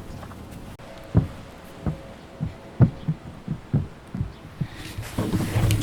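A series of dull, low knocks, about three a second and uneven, from work on the roof structure, followed near the end by a louder rustling, scraping noise.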